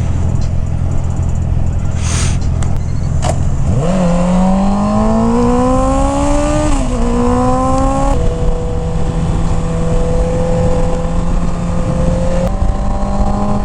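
Motorcycle engine idling, then pulling away about four seconds in, its pitch rising steadily as it accelerates. The pitch drops at gear changes, then it runs at a steady speed with rushing wind noise throughout.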